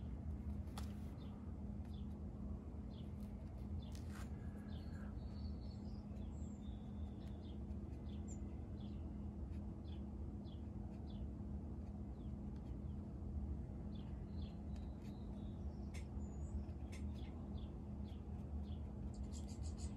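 Steady low hum with faint, scattered small-bird chirps throughout.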